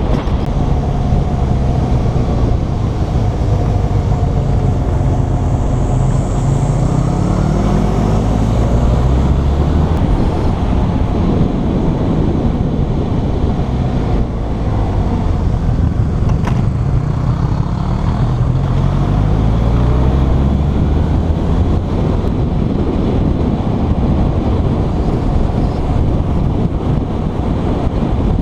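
Motorcycle engine running under way, its pitch climbing again and again as it accelerates through the gears, over a steady rush of wind and road noise.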